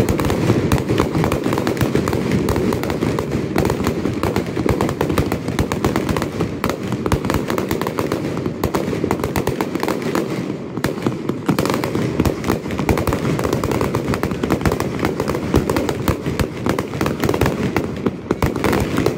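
Aerial fireworks display: a dense, continuous barrage of shell bursts and crackling, many bangs overlapping without a break.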